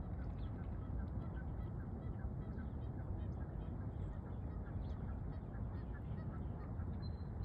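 A flock of waterfowl on the lake calling, many short honks and quacks overlapping, over a steady low rumble.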